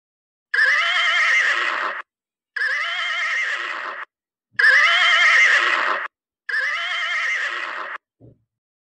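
Horse whinnying four times in a row, each call about a second and a half long with a quavering, shaking pitch.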